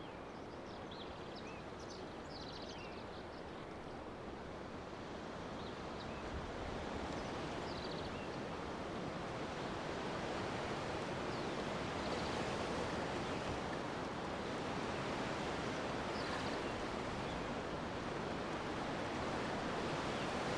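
Steady outdoor noise that slowly grows louder, with a few faint high bird chirps in the first few seconds. No dog is heard.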